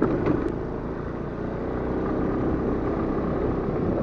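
Scooter engine running steadily while being ridden.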